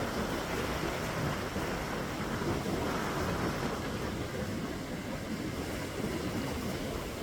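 Wind buffeting the microphone over the sound of sea surf on a beach: a steady rushing noise with no distinct events.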